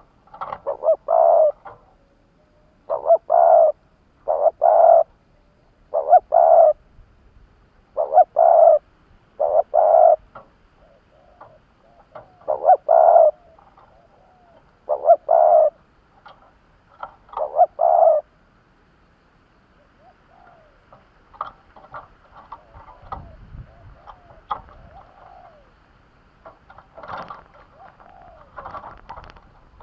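Decoy spotted dove cooing: loud phrases of two or three low notes repeating every couple of seconds, then fading after about eighteen seconds into fainter, scattered bird calls. This is the calling used to draw wild spotted doves in.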